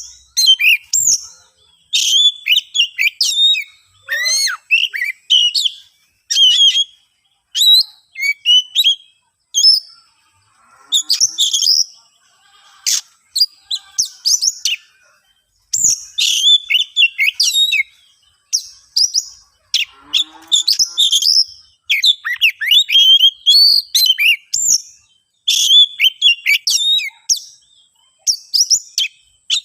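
Oriental magpie-robin (kacer) singing loud, rapid, varied phrases of whistles and sharp chips, in bursts of a second or two with short pauses between them. It is the bird's agitated, territorial fighting song.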